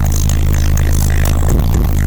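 Competition car audio system's subwoofers playing loud, steady deep bass, with crackling rattle and buzz riding on top.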